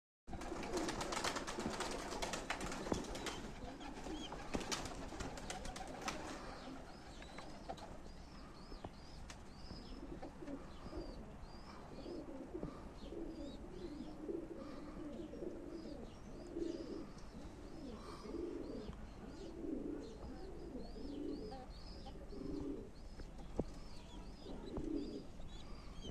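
Domestic tumbler pigeons cooing over and over, with thin high chirping above the coos. The first few seconds hold a burst of rustling and knocking.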